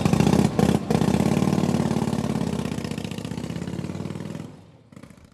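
Antique motorcycle engine running with a steady beat, growing gradually fainter and dying away about four and a half seconds in.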